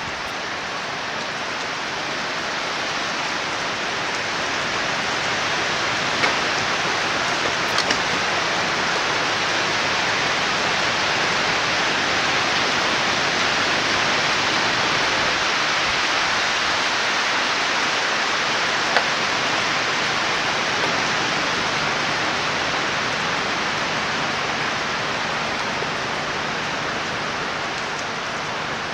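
Storm noise of wind and rain: a steady rushing hiss that builds slowly to a peak near the middle and eases off toward the end, with a few faint ticks.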